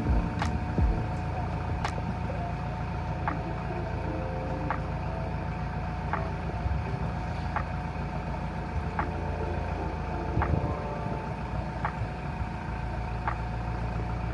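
Widebeam canal boat's engine running steadily under way, a low hum with a light regular click about every one and a half seconds.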